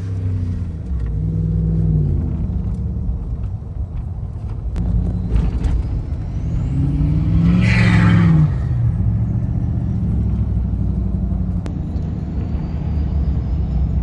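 Pickup truck engine running under way, its pitch rising and falling as it revs up and eases off several times. About eight seconds in a louder rushing swell builds and fades.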